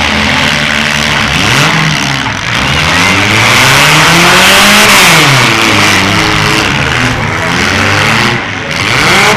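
Demolition derby cars' engines revving hard, the pitch climbing to a peak about five seconds in and then falling away.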